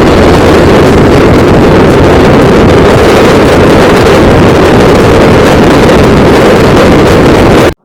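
Heavy, steady wind noise on the microphone of a motorcycle riding at speed, with the bike's running sound under it. It cuts off suddenly near the end.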